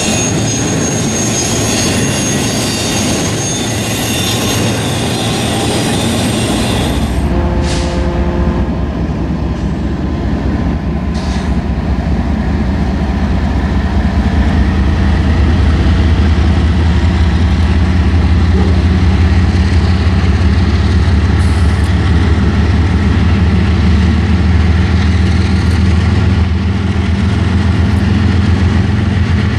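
Freight train wheels squealing with high steady tones as a double-stack container train rolls past. About a quarter of the way in this gives way to a louder, steady low engine drone.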